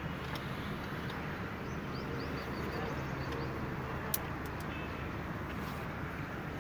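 Steady outdoor background noise, a low rumble and hiss, with one sharp click about four seconds in.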